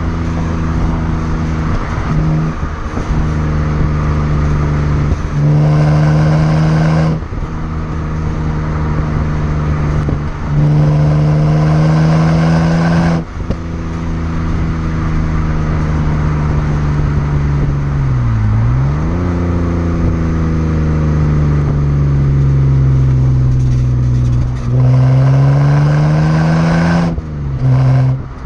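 BMW 330i 3.0-litre straight-six running through a Rogue Engineering aftermarket exhaust, held at moderate revs with three stretches where the throttle opens, the exhaust note gets louder and rises in pitch, then drops off suddenly. Midway the revs dip briefly and climb back.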